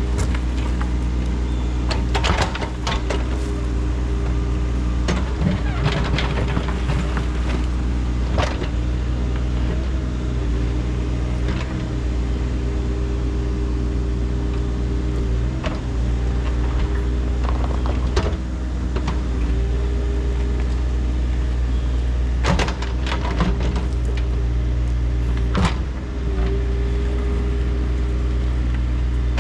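An engine running steadily at an even speed, with scattered sharp knocks and scrapes over it.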